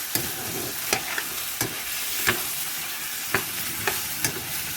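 Chicken pieces sizzling in a pot for tinola while being stirred, a spatula or ladle knocking against the pot several times over a steady frying hiss.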